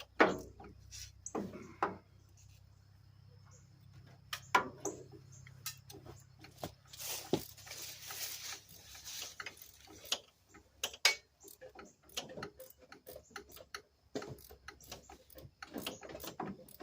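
Scattered sharp clicks, taps and knocks of hand tools and loose metal parts being handled on an old truck engine, some coming in quick ticking runs. A hiss lasting about two seconds comes about seven seconds in.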